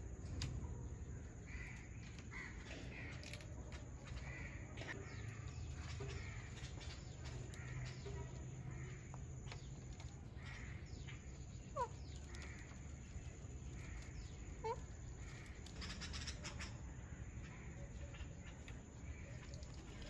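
Soft bird calls repeating about once a second, with two short, sharp downward chirps about midway and a brief rustling burst a little later.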